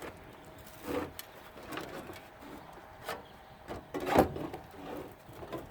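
Several separate knocks and clanks of hand tools on the sheet-metal parts of a central air conditioning unit being taken apart, with the loudest about four seconds in.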